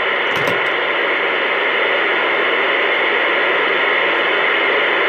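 Loud, steady static hiss from a CB radio receiver on an open channel, with no voice coming through.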